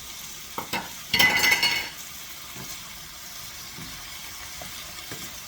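Sautéing zucchini and yellow squash in a frying pan as garlic goes in: two light knocks, then a loud burst of sizzle lasting under a second, over a steady frying hiss.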